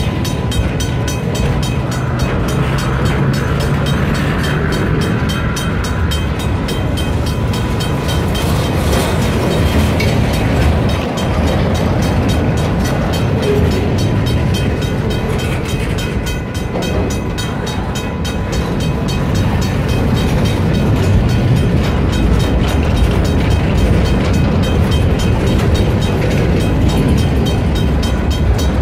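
EMD SD40-2 diesel-electric locomotives, whose 16-cylinder two-stroke diesels run with a steady rumble, moving a train with the wheels ticking on the rails. The noise grows somewhat louder in the last third.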